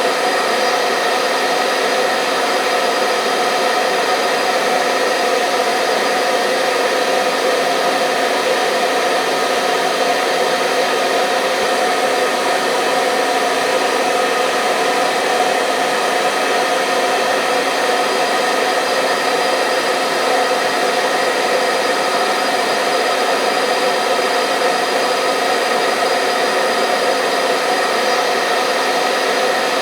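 Hair dryer running continuously at a steady speed, a level whooshing rush of air with a steady motor hum beneath it.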